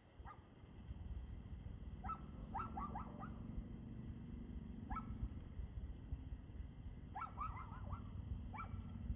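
A dog barking in short bursts: single barks and quick runs of three or four, about a dozen in all. Under the barks runs a steady low rumble that comes up about a second in.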